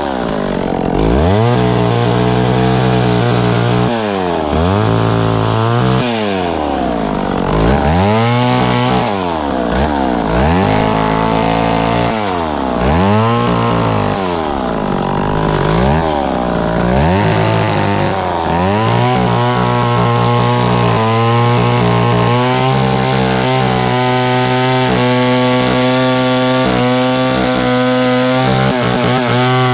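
Gas chainsaw cutting wood. The throttle is revved and eased off about every two seconds, then held at high speed through a long steady cut for the last third.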